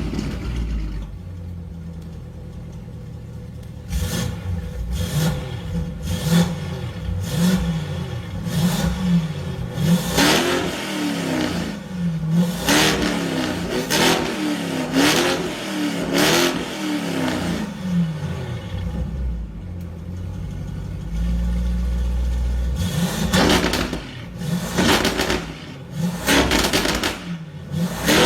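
Lamborghini Urus twin-turbo V8 through a Fi Exhaust valvetronic exhaust, idling and then revved repeatedly in short blips, the engine pitch rising and falling with each rev. It settles back to a steady idle partway through, then revs again in quicker succession near the end.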